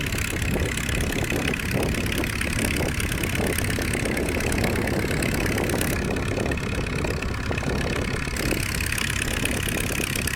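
An engine running steadily at idle, with no change in pace, then cut off abruptly at the end.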